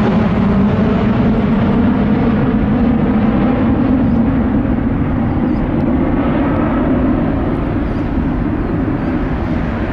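Boeing 757 jet engines, a loud steady rushing roar that slowly fades over the last few seconds.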